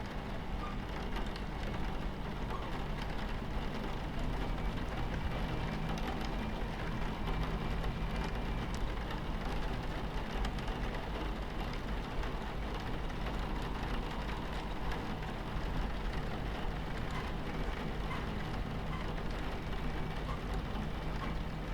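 Train ambience: the steady low rumble of a train running on its tracks, with rain pattering on the carriage window over it.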